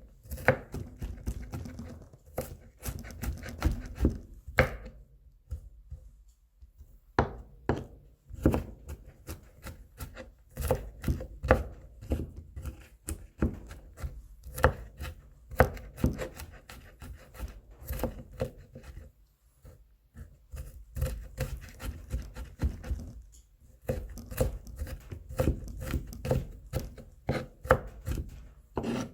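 Kitchen knife mincing whole garlic cloves on a cutting board: rapid, uneven chopping strikes, with a couple of brief pauses, around six seconds in and again near twenty seconds.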